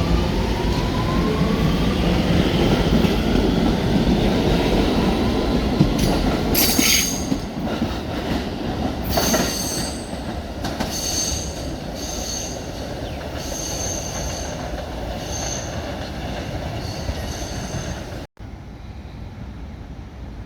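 Staten Island Railway electric train pulling away, its traction motors whining up in pitch over a heavy rumble. From about six seconds in the wheels squeal on the rails in short, high-pitched screeches, repeated many times. The sound cuts off abruptly near the end, leaving a quieter steady noise.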